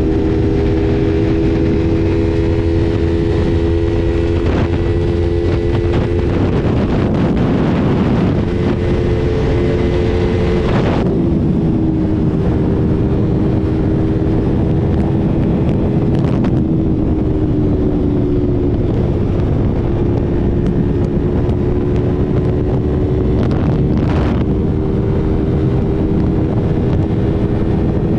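Yamaha R3's parallel-twin engine running at steady revs while riding, under heavy wind rush on the microphone. Its tone drops slightly a few times.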